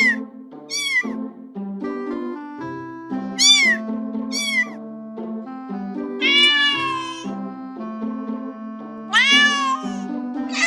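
Domestic cat meowing about six times, short meows in the first half and two longer ones later, over background music.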